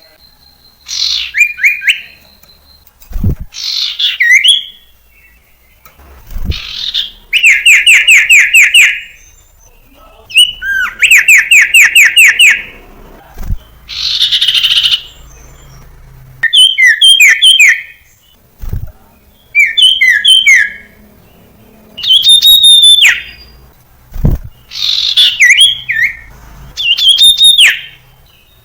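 Common iora (sirtu, cipoh) singing: about ten short phrases of whistled notes and fast trills, each a second or two long with brief pauses between. The longest are runs of rapidly repeated notes.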